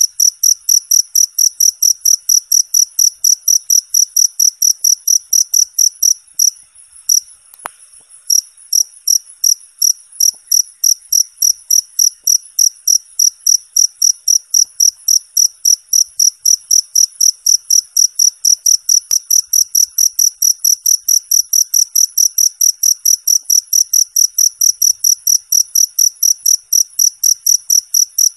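Cricket chirping loud and clear: a high chirp repeated evenly about three times a second, with a short break about six to eight seconds in.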